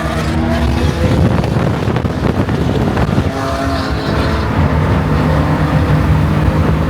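Several sports car engines running loudly together as a crowd of cars pulls in, their pitch shifting a little now and then.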